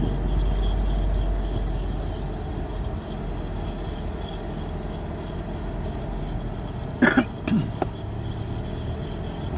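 Cab noise of a 1992 Ford Ranger with a manual transmission on the move: a steady low engine-and-road rumble, a little louder in the first two seconds. About seven seconds in, a person in the cab makes a short cough-like vocal sound.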